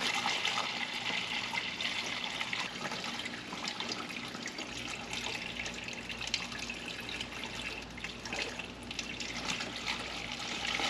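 Water being poured steadily through a funnel into a car's empty cooling system, a continuous trickling pour.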